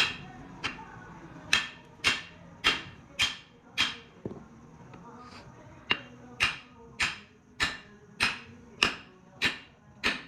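Hammer striking metal in steady blows about every 0.6 seconds, each with a short ringing tail, pausing for about two seconds midway before the blows resume.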